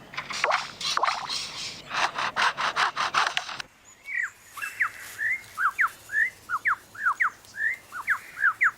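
Superb lyrebird mimicking: a fast, clattering rattle from its chainsaw imitation for about three and a half seconds, then a run of quick whistled chirps, each note a short sweep up or down.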